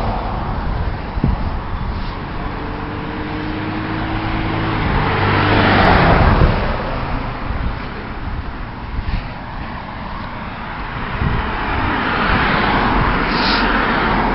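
Road traffic: cars going past, with one passing loudest about six seconds in and another swelling up near the end.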